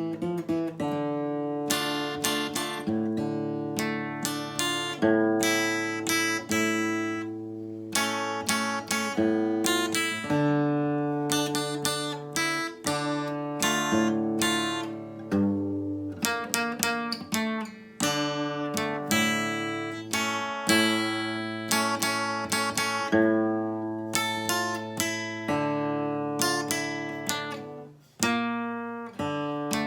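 Acoustic guitar playing an instrumental melody, single plucked notes over low bass notes in a steady succession.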